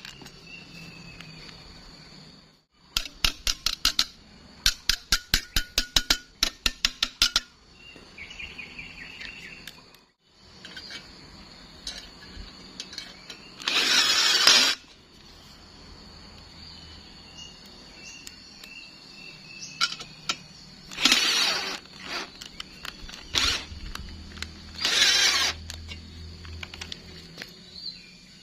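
Welding: two runs of rapid, evenly spaced crackling pulses early on, then three separate bursts of arc crackle about a second long each.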